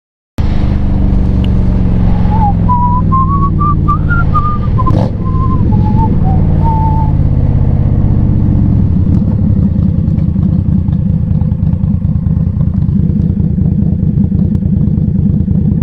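2020 Indian Scout Bobber Twenty's 1133 cc V-twin running under way, heard from the rider's helmet with rushing wind, cutting in abruptly about half a second in. A wavering whistle-like tone rises and falls over it from about two to seven seconds in.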